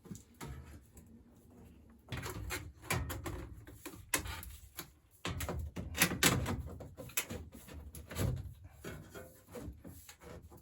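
Irregular knocks, clicks and scrapes of tools and parts being handled during furnace installation work, loudest about four and six seconds in.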